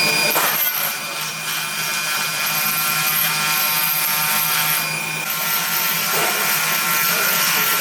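Stone-working machine grinding or cutting semi-precious stone: a steady high whine over a loud grinding hiss, shifting about half a second in and again about five seconds in.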